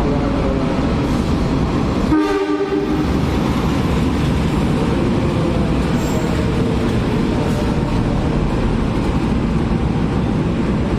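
Passenger train headed by two diesel locomotives running past with a steady, loud noise of engines and wheels on rail, broken by a short horn blast about two seconds in.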